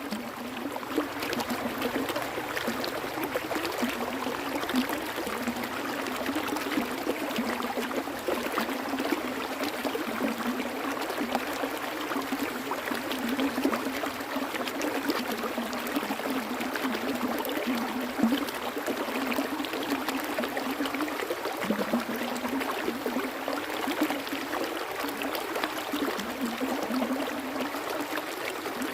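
Flowing water running steadily without a break.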